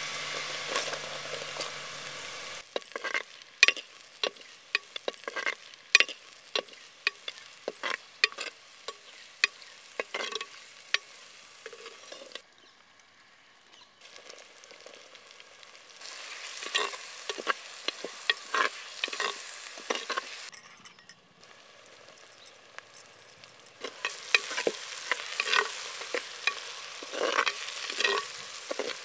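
Sliced onions sizzling as they go into hot oil in a terracotta clay pot, then a metal ladle scraping and clacking against the pot in quick strokes as the onions and green chillies are stirred and fried. The stirring stops twice for a few seconds.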